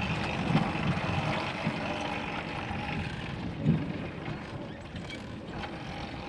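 Steady wind on the microphone and rolling noise of a bicycle ride, with a faint steady high tone underneath.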